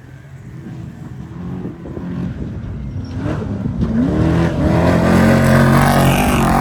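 Off-road race vehicle's engine approaching at speed, growing steadily louder, with the pitch climbing as it revs up about halfway through and running loudest near the end.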